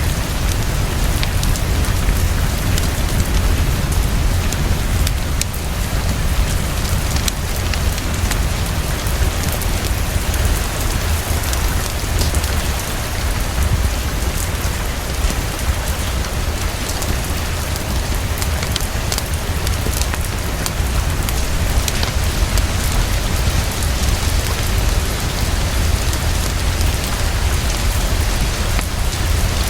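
Heavy, steady rainfall with a constant deep low rumble underneath, and scattered sharp little clicks that are the crackle of a fireplace.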